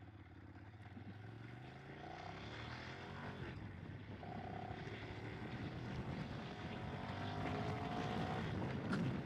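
Ducati Streetfighter 848's L-twin idling at a stop, then pulling away. The revs rise in two pulls, with a gear change in between about three and a half seconds in. The noise grows steadily as the bike gathers speed.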